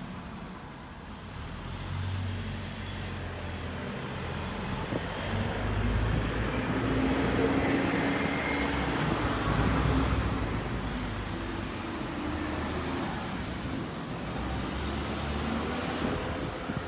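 Road traffic: motor vehicle engines running and passing close by, loudest about six to ten seconds in.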